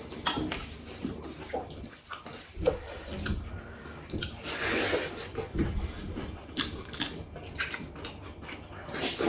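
Eating at a table: scattered small clicks and knocks, with a noisy, wet-sounding stretch of about a second around the middle.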